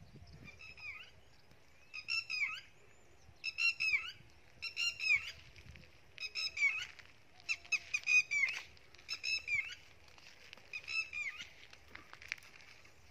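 A bird calling in quick clusters of short, high, arching notes, repeated about once a second and falling silent near the end.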